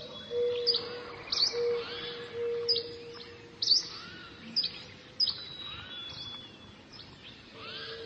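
Birds calling: short, sharp high chirps about once a second over a lower, steady call that comes in short repeated stretches.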